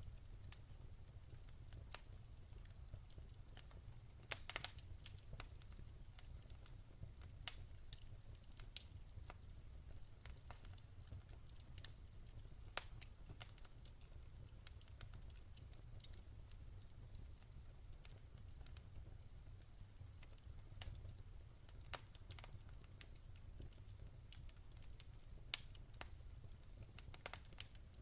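Wood fire crackling quietly: irregular small snaps and pops, with a few sharper, louder pops scattered through, over a steady low rumble.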